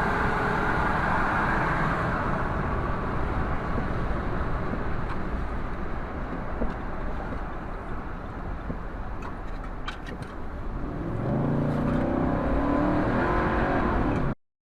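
Car driving: steady engine and road noise, easing off in the middle and coming up louder again near the end with a clear engine note, then the sound cuts off abruptly.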